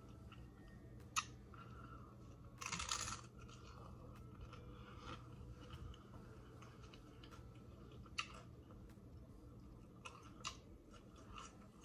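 Soft chewing of a mouthful of hard-shell taco, with one loud crunchy bite into the fried corn shell about three seconds in and a few short clicks of the mouth.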